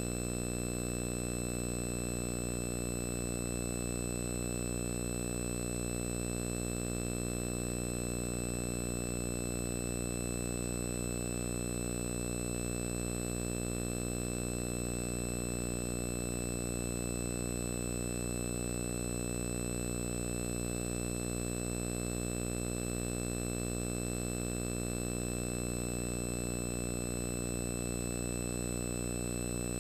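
A steady, unchanging electrical hum with a faint high whine above it. It holds exactly the same level and pitch throughout.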